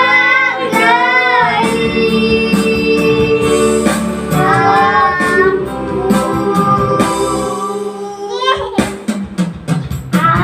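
Children and a woman singing a slow Indonesian worship song over backing music with guitar, holding long notes. In the last couple of seconds the singing gives way to a quick run of sharp strokes as the song closes.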